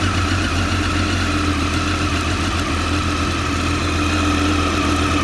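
A 2013 Triumph Daytona 675's inline three-cylinder engine idling steadily, shortly after being started.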